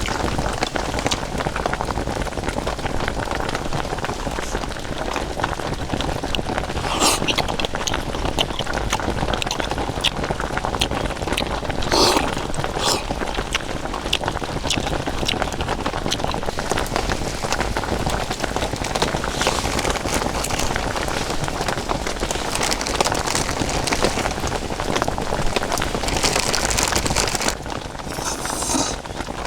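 Steady rain falling, with scattered sharper drop hits standing out now and then; it eases off a little near the end.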